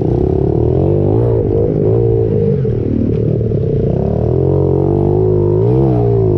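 Pit bike engine running and revving, its pitch rising and falling several times with the throttle.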